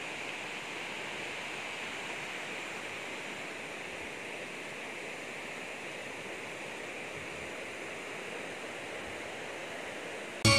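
Steady rushing of flowing floodwater, an even hiss with no breaks. Loud music cuts in at the very end.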